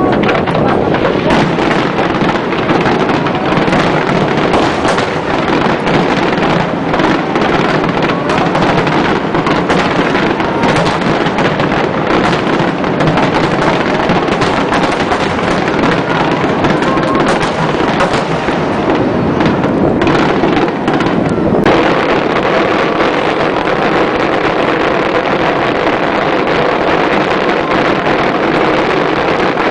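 Fireworks display: a dense, rapid barrage of shell bursts and crackle over a continuous wash of noise. After about twenty seconds the sharp bangs thin out and a steadier noise remains.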